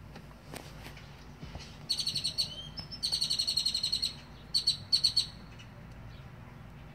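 A bird singing in bursts of fast, high trills, with a short gliding whistle between the first two bursts.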